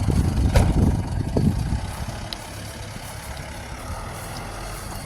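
A vehicle engine running, loudest in the first second and a half and then quieter and steady, with a couple of sharp clicks near the start.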